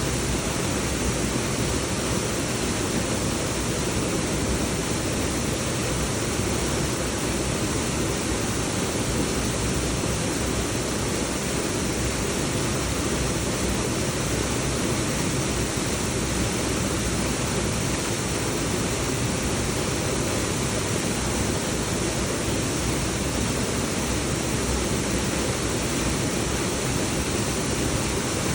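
Sidi Tapa waterfall: the steady, unbroken rush of falling water, an even hiss that fills everything from deep rumble to high pitches.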